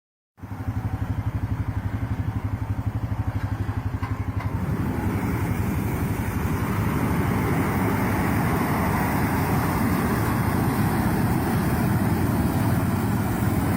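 An engine running with a regular pulsing beat, then growing louder and busier about four and a half seconds in as it picks up speed or takes on load.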